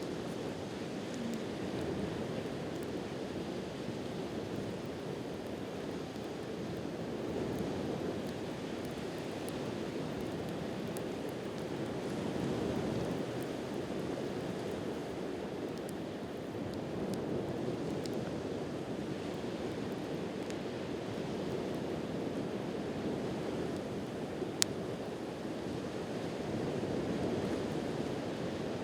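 Ocean surf washing in slow swells, with a few sharp crackles from a wood campfire, one louder pop near the end.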